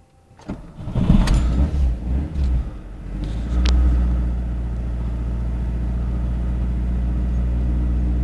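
Lada Samara's 1.3-litre four-cylinder engine started cold at −4 °C. The starter cranks unevenly for about three seconds, then the engine catches about three and a half seconds in, briefly picks up revs, and settles into a steady cold idle.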